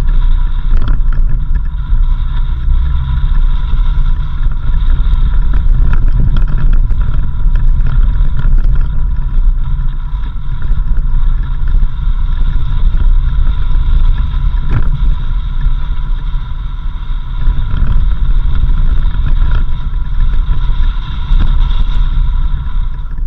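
4x4 vehicle driving on a dirt road: a heavy steady rumble with a steady high whine over it, and a few faint knocks.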